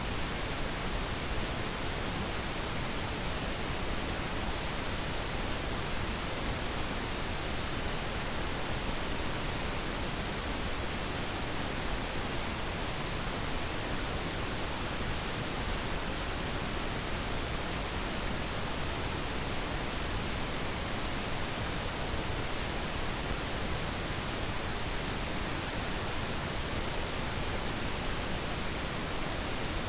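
Steady pink noise: an even, unbroken hiss with no changes or other sounds.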